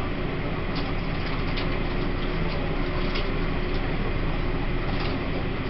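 Steady running noise inside a Taiwan Railways E1000 push-pull express car: a continuous rumble of wheels on rail with a faint steady hum, and a few light ticks now and then.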